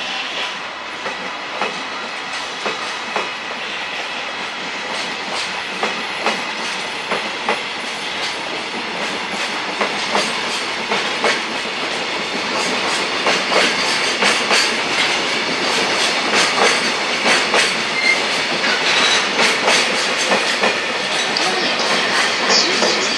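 Electric train running on the rails, its wheels clicking over the rail joints in a clickety-clack that grows louder as the train comes closer.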